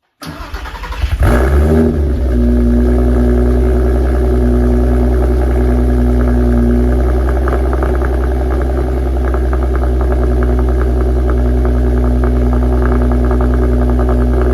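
Volkswagen New Beetle RSi's 3.2-litre VR6 engine on a cold start: the starter cranks for about a second, the engine catches with a quick flare in revs, then settles into a steady fast idle.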